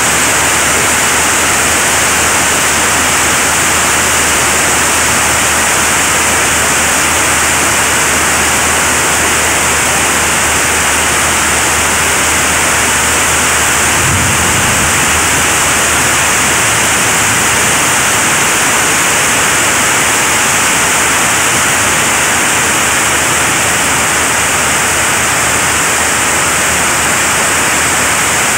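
Heavy rain pouring onto a corrugated sheet-metal roof: a loud, steady, unbroken hiss.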